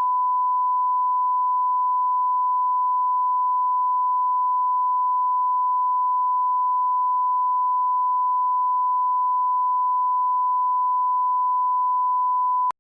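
Steady 1 kHz sine-wave reference tone at −18 dB line-up level, used for audio level alignment; it holds one unchanging pitch and loudness and cuts off sharply near the end.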